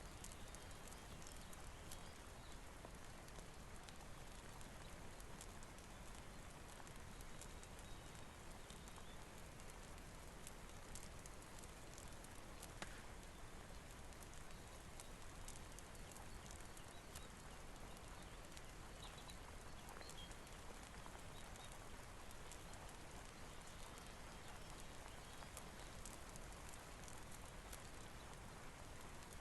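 Steady, quiet rain hiss with scattered sharp crackles and pops from a wood fire.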